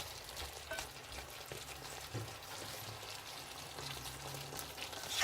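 Chicken Manchurian sizzling in its thick sauce in the pan, a soft, steady crackle. A sharp tap comes at the very end.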